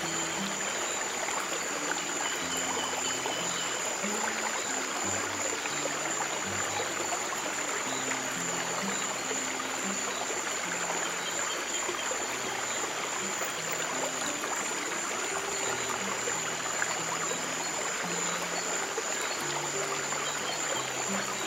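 Steady running stream water, with slow, soft low piano notes held and changing every second or two beneath it, and a faint steady high tone.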